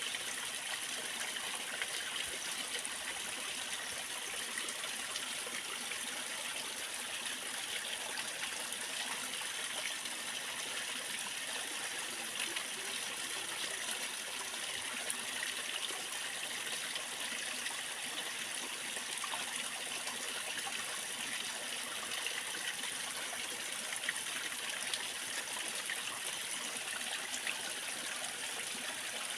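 Waterfall splashing and rushing steadily, a constant hiss of falling water without deep rumble.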